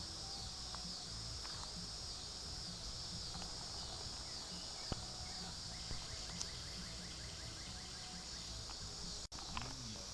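Steady chorus of insects: a high, shrill, evenly pulsing drone, with a quicker ticking trill for a few seconds in the middle. The sound drops out for an instant near the end.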